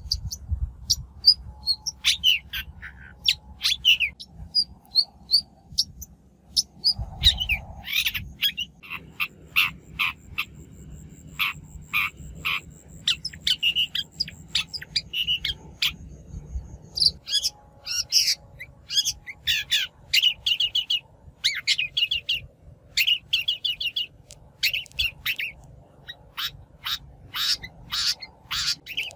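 A shrike calling in rapid runs of harsh, chattering notes mixed with short high whistles, the call used as a lure to draw in wild shrikes.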